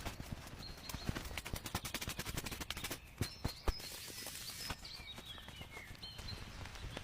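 Many quick knocks and clicks in an irregular patter, with a bird chirping over them: short whistled notes, and a falling run of notes near the middle.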